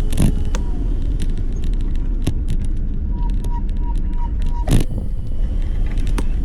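Wind and road rumble on the microphone of a moving electric bike, with scattered clicks and rattles. A run of about six short, evenly spaced beeps sounds in the middle.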